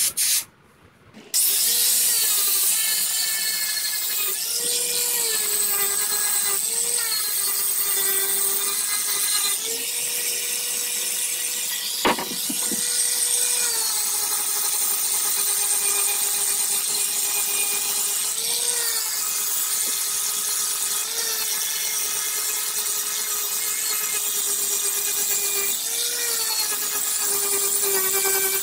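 Electric grinder running continuously as it grinds down fiberglass. Its steady whine lifts briefly in pitch several times as the load changes. It starts up about a second in after a brief pause, and there is a single sharp click near the middle.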